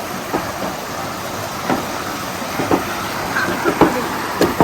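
Mountain stream rushing over rocks: a steady rush of water, with a few short knocks from about two seconds in.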